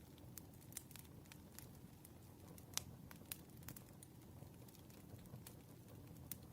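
Campfire crackling: irregular sharp pops and snaps over a soft low rumble of burning wood, with the loudest pop about three seconds in.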